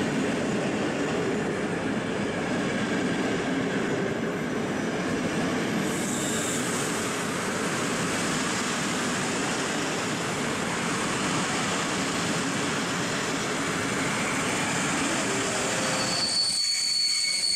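Passenger train rolling along the station tracks: a steady, dense rumble of wheels on rail with high wheel squeal. It cuts off abruptly near the end, leaving a quieter sound with a steady high tone.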